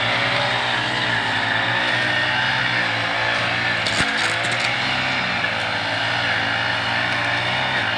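An engine running steadily at an even speed, with one brief click about halfway through.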